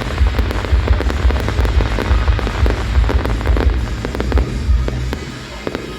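Fireworks display going off, with many rapid cracks and bangs, over loud show music with a heavy bass that eases off near the end.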